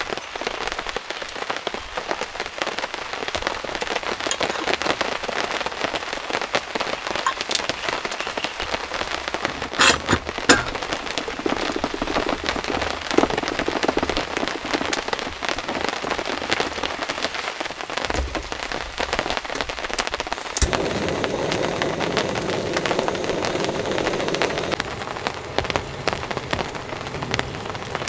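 Steady rain pattering, a dense run of drops with a few louder taps. About twenty seconds in, the sound turns abruptly fuller and deeper.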